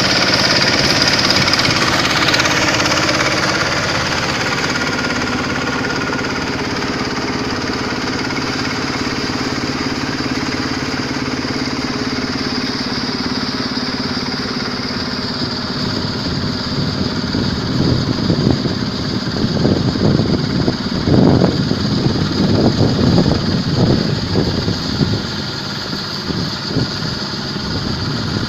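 Kubota diesel engine of a Quick H-140R combine harvester running steadily. From about two-thirds of the way in, irregular louder low rumbling surges come over the steady engine note.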